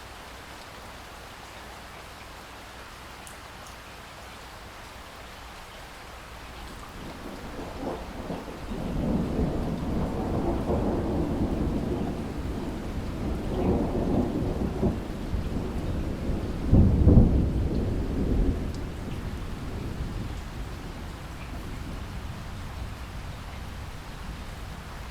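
Steady rainfall with a long roll of thunder. The thunder builds about a third of the way in, breaks into a sharper, louder clap about two-thirds through, then rumbles away while the rain carries on.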